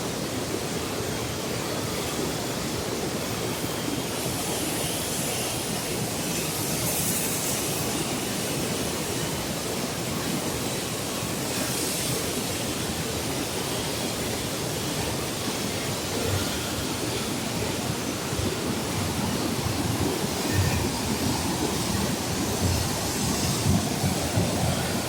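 Flash floodwater rushing down a wadi as a steady, dense wash of noise, growing a little louder and more uneven near the end.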